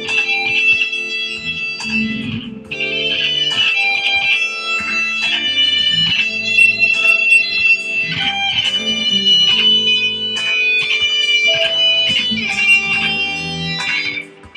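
Instrumental break of a song: an electric guitar playing a melodic lead with backing, with a brief drop in level near the end.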